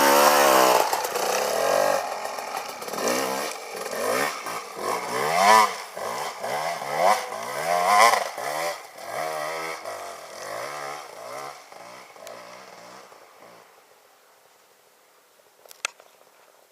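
Motorcycle engine revving as it pulls away, its pitch rising and falling again and again with the throttle and gear changes, then fading out after about twelve seconds.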